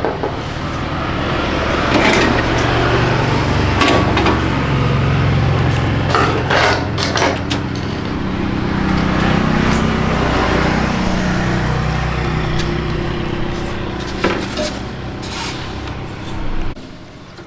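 A motor running steadily with a low hum that drifts slightly in pitch, with scattered knocks and scrapes, cutting off suddenly near the end.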